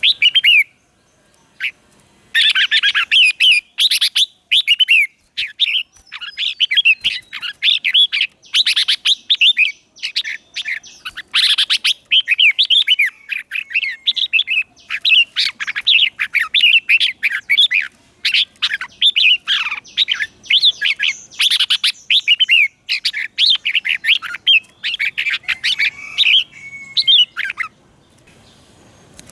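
Red-whiskered bulbul singing fast, chirpy, warbling phrases almost without pause after a short opening burst. It is a decoy bird's song, used to lure wild bulbuls.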